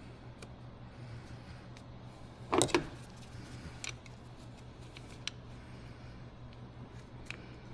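Hands handling parts and tools under the hood: scattered small clicks and a short, loud clatter of plastic and metal knocks about two and a half seconds in, over a steady low hum.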